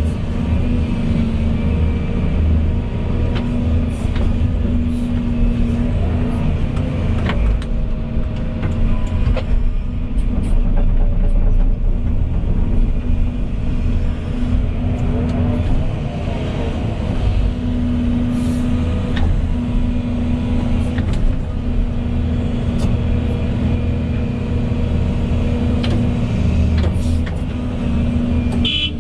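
Volvo EC220E excavator's diesel engine running steadily at working speed, its note dipping and returning slightly. Scattered short clicks and knocks over it.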